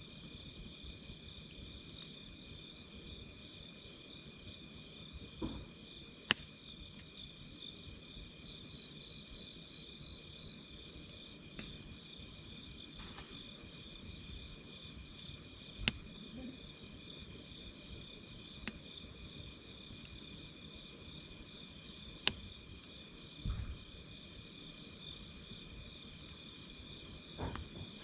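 Steady, pulsing chirring of insects, with the odd sharp crackle and pop from a wood campfire, about five in all.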